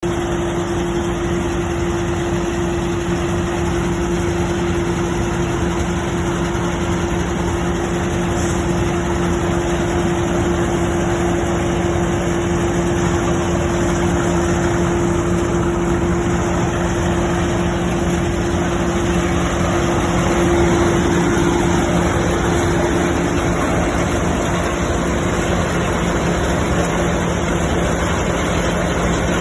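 Tractor-powered groundnut grader running steadily, cleaning soil from groundnuts: a constant engine hum under a dense, even machine noise.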